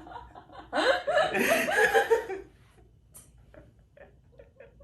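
A person laughing for about two seconds, then a few faint light ticks.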